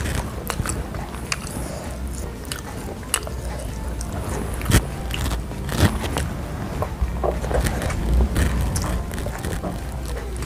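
Close-up eating sounds of bakso meatballs being bitten and chewed: wet mouth noises with irregular sharp clicks.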